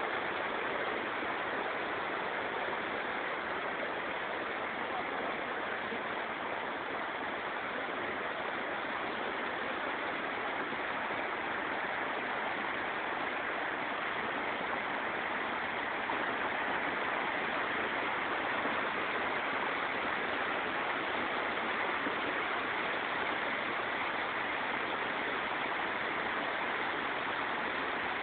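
Floodwater rushing, a steady unbroken roar of fast-moving water.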